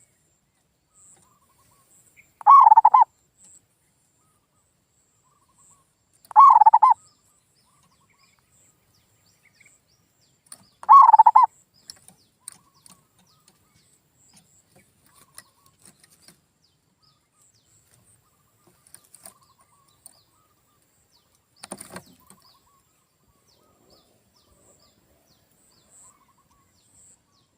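Male zebra dove (perkutut) cooing: three short phrases about four seconds apart, followed by a long pause broken by faint ticks and one sharp click about 22 seconds in.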